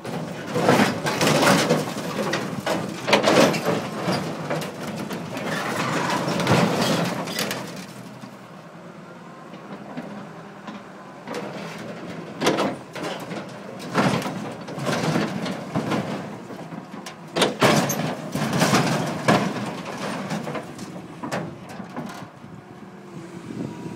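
Sheet metal of a combine harvester crunching, scraping and clattering in repeated bursts as it is crushed by heavy machinery. The bursts are loudest in the first few seconds and again in the second half, with a quieter spell between.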